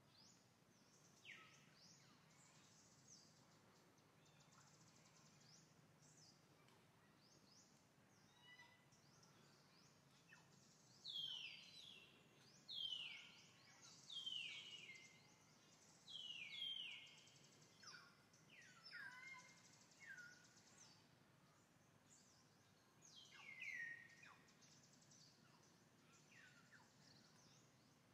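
Birds chirping over a faint, steady background: a run of short, high chirps that fall in pitch, about one every second or two, beginning a little over a third of the way in.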